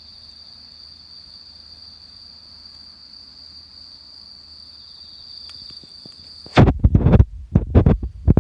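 An insect, cricket-like, trilling on one steady high note. It cuts off suddenly a little over six seconds in, and loud low thuds and rumbling take over, like handling noise or knocks on the microphone.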